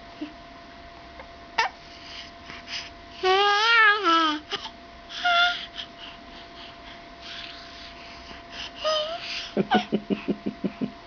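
Baby babbling: a high, wavering squeal about three seconds in, a few short calls, and a quick string of short "ah-ah-ah" sounds near the end.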